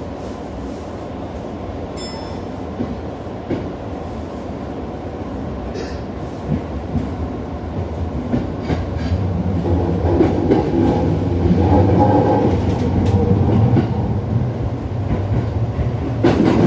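JR East E217 series electric train pulling out and picking up speed, heard from inside the leading car: a running rumble with scattered clicks of wheels over rail joints, growing louder after the first several seconds.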